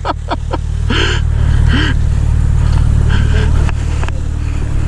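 Sport motorcycle engines idling with a steady low rumble.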